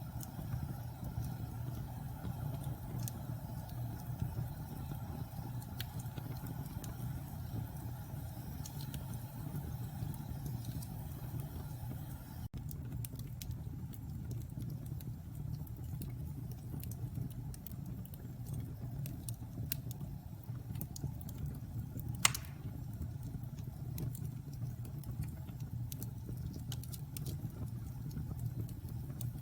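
Wood logs burning in a fireplace: a steady low roar of the flames with scattered small crackles. One loud sharp pop about two-thirds of the way through.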